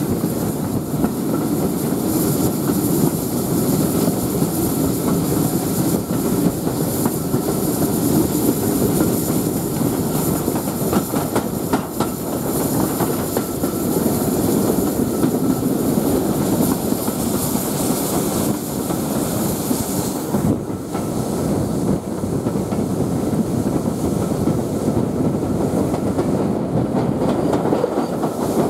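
Passenger coaches of a steam-hauled train, drawn by Bulleid Pacific 34028 Eddystone, running along the line, heard from an open carriage window. A steady rumble of wheels on the rails with clickety-clack over the rail joints, closing in briefly as the train passes under a stone bridge near the end.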